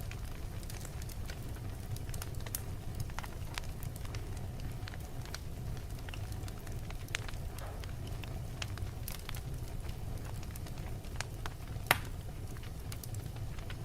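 Wood fire burning in a fireplace: a steady low rumble of flames with scattered crackles and pops, one sharp pop louder than the rest near the end.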